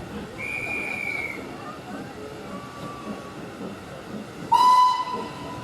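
A guard's whistle blows a short high note, then a few seconds later a steam locomotive's whistle sounds loudly and holds: the departure signal and the engine's answer as the train pulls out. Voices chatter underneath.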